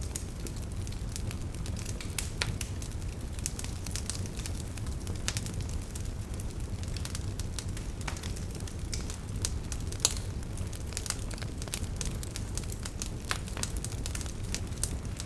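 Wood fire burning: a steady low rush with irregular sharp crackles and pops, one louder pop about ten seconds in.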